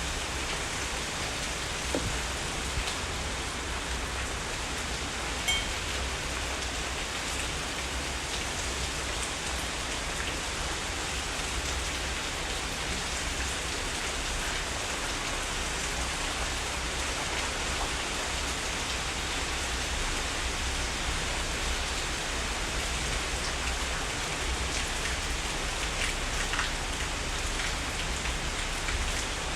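Heavy rain falling steadily, with individual drops ticking sharply here and there over the dense hiss and a steady low rumble underneath.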